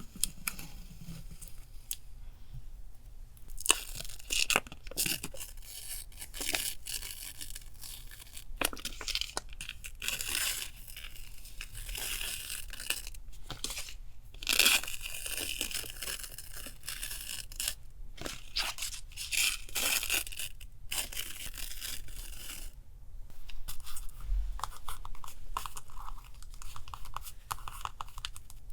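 Paper being torn by hand: a run of separate rips, with rustling of paper handled between them.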